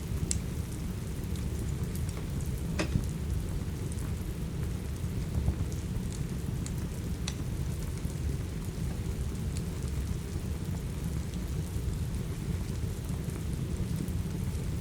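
Steady rain with a deep, even rumble, and now and then the sharp pops and crackles of a wood fire burning in a fireplace, the loudest pop about three seconds in.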